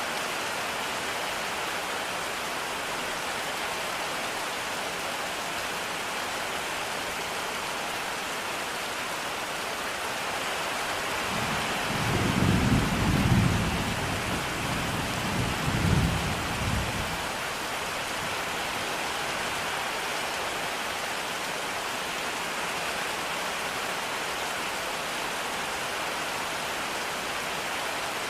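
Steady rain falling, with a low roll of thunder about midway that swells, peaks twice and fades out over about six seconds.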